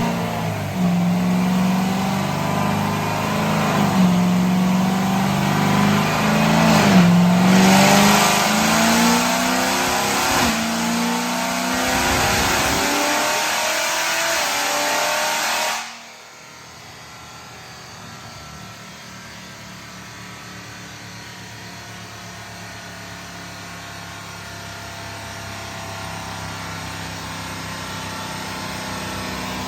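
Supercharged LT4 V8 of a C7 Corvette Z06 with a BTR stage 2 camshaft, running hard with its pitch rising and falling for about sixteen seconds. It then cuts suddenly to a much quieter, steady engine drone that slowly grows louder.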